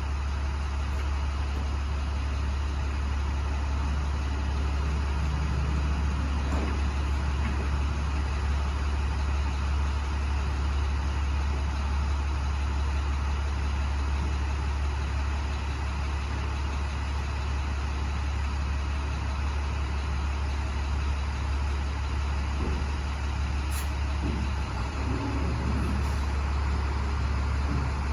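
Box truck's engine running steadily at low speed, a deep even hum, with a few faint knocks near the end.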